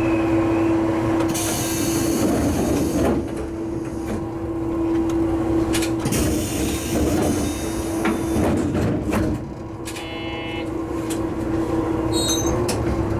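Diesel railcar running along the track: a steady engine hum under the rumble of wheels on rail, with a few sharp clacks and brief high squeals from the wheels.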